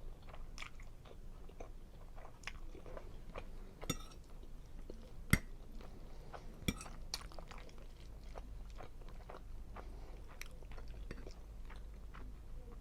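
Close-miked chewing of pasta and seafood: soft, irregular wet mouth clicks and smacks, with a few sharper ticks about four, five and a half and nearly seven seconds in.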